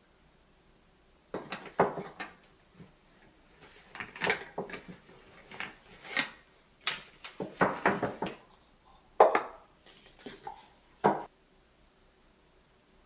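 Dishes and cutlery clinking and clattering as they are handled, in irregular bursts of sharp knocks.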